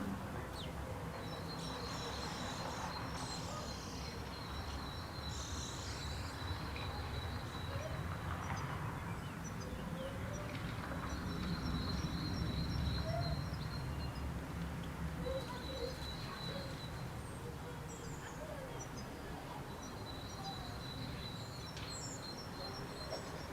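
Outdoor bird calls: a rapid high trill repeated in several runs of a few seconds each, with scattered small chirps, over a steady low rumble of background noise.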